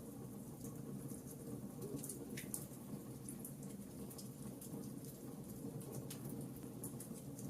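Fireplace crackling: a low steady rumble of burning with scattered small snaps and pops, one a little stronger about two and a half seconds in.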